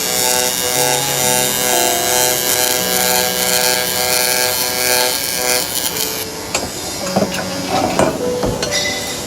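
Background music with a simple melody over a steady rasping noise of metalwork on a suspension frame. About six seconds in, the melody falls away and a string of sharp knocks and clanks takes over.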